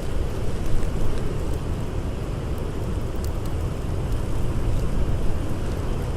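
Blizzard wind blowing in a steady, low rush, with a few faint crackles from a wood fire.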